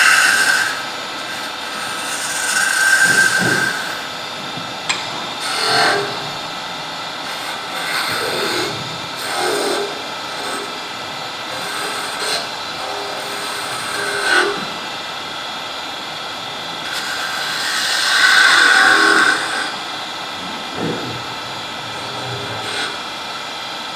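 Wood lathe running steadily while a turning tool cuts the spinning wood in repeated passes. Each cut is a swell of shaving noise, and the longest comes about 17 to 19 seconds in.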